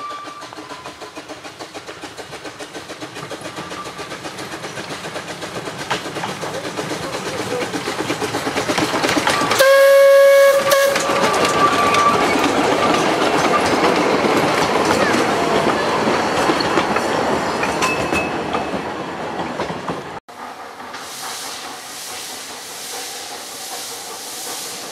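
Narrow-gauge train approaching and passing close by, its wheels clattering along the track and growing steadily louder, with one short high toot of its whistle about ten seconds in. About twenty seconds in the sound cuts off abruptly to a quieter, steady hiss.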